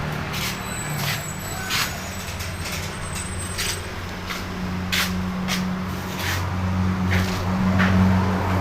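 A low, steady motor hum that grows louder about halfway through, with scattered clicks and knocks over it.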